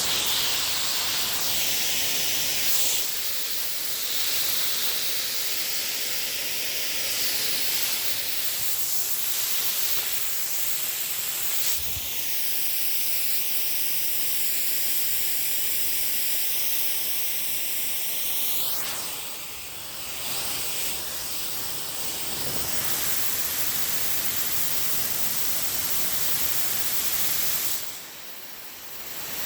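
Water jetting from a hose nozzle at medium pressure, a steady loud hiss. From about twelve seconds in, a whistling tone rises over the spray for some six seconds; the spray briefly drops away twice, near twenty seconds and near the end.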